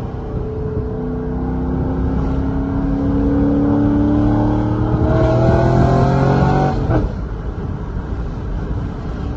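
2006 C6 Corvette's LS2 V8 with catless headers and cat-back exhaust accelerating under throttle, the exhaust note rising steadily in pitch for several seconds. About seven seconds in the revs drop suddenly and it settles into a steady cruise.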